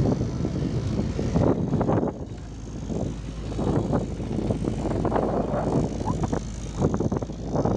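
Tourist boat's motor running steadily, with irregular rushes of noise over it.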